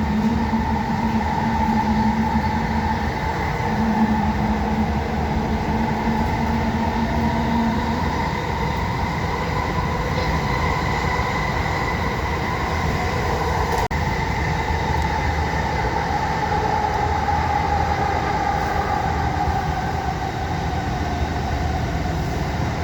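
Passenger train running, heard from inside the carriage: a steady rumble with a faint whine that slowly shifts in pitch, and a low hum over the first several seconds.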